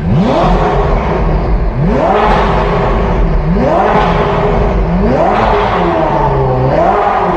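Ferrari 488 GTB twin-turbo V8 breathing through a newly fitted FI Exhaust system, revved five times in a row about every second and a half. Each blip climbs in pitch and falls back to idle.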